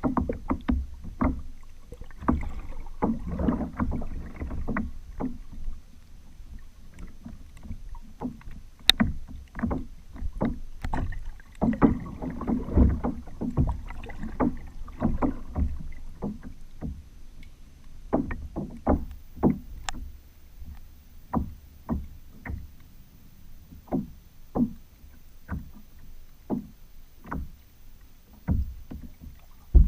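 Kayak under paddle: water sloshing and splashing against the hull, with many irregular short knocks and taps. The splashing grows denser twice, about three seconds in and again around twelve seconds in.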